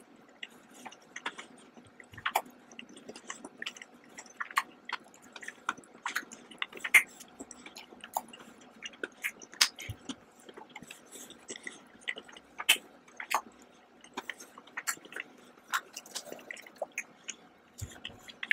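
Close-miked chewing of chocolate: irregular wet mouth clicks and smacks, several a second, some much sharper than others.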